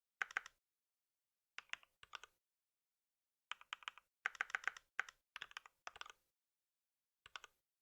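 Typing on a computer keyboard in short bursts of keystrokes, with brief pauses between the bursts.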